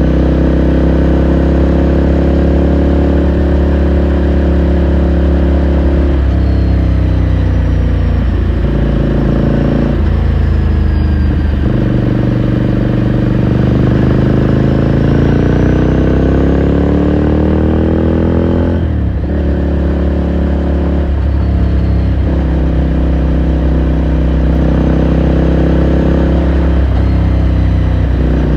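Ducati Scrambler Sixty2's 399 cc air-cooled L-twin running under way, recorded onboard. The revs change abruptly several times as the rider shifts gears and works the throttle, with a long rise in revs about halfway through that drops off sharply at a gear change.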